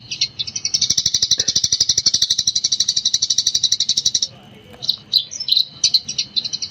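Eurasian tree sparrow chattering in a rapid continuous run of high chirps, many per second. It breaks off a little past halfway into a few separate chirps, then picks up the fast chatter again near the end.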